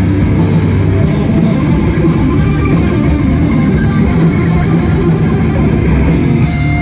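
Hardcore band playing live: distorted electric guitars and drum kit, loud and steady.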